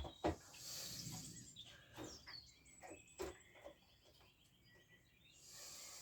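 Faint, scattered knocks and clicks of hand work on a scooter during engine removal, with birds chirping faintly in the background.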